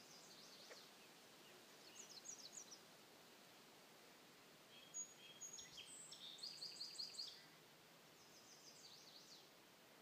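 Birds calling in short, high chirping phrases, four times over, faint over a steady hiss; the loudest and longest phrase, about five to seven seconds in, is a quick run of repeated notes.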